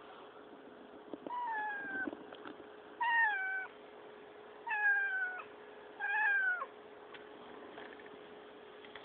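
Female cat meowing four times, each meow about a second apart and sliding down slightly in pitch, over a faint steady hum.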